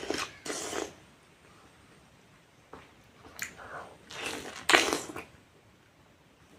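Wet, squelchy bites and chewing of juicy fresh pineapple close to the microphone, in a few short bursts: two near the start and a cluster about three to five seconds in.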